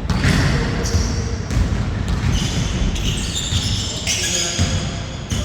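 A basketball bouncing on an indoor court during play, with short high sneaker squeaks coming and going and players' voices.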